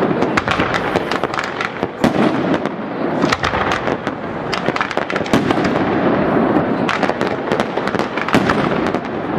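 Fireworks display: a dense, unbroken barrage of shell bursts and crackling, many sharp bangs overlapping with no pause.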